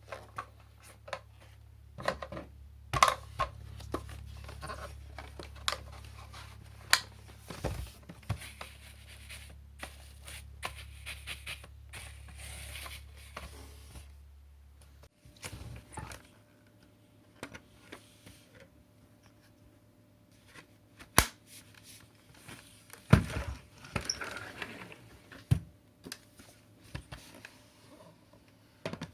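Handling noises: a string of sharp clicks and knocks with some scraping and rustling. Under them a low hum runs until about halfway, then stops suddenly.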